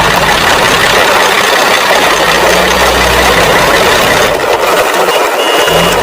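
A truck engine running steadily: a dense, even noise with a low hum underneath.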